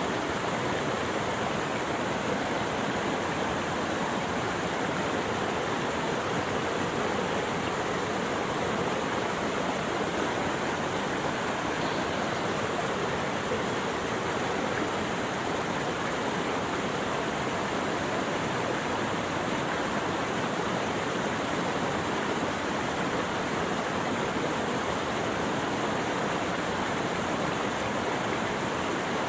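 Steady rushing water, a stream or small waterfall, flowing evenly without change.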